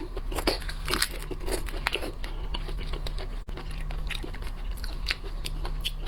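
Close-miked eating of shellfish, with irregular crunchy bites, crackling shell and chewing.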